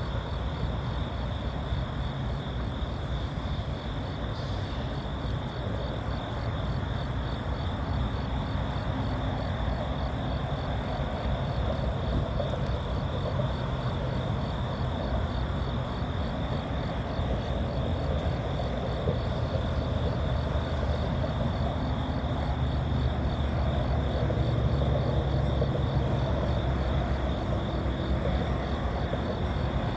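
Norfolk Southern diesel locomotives idling with a steady low rumble, growing a little louder near the end.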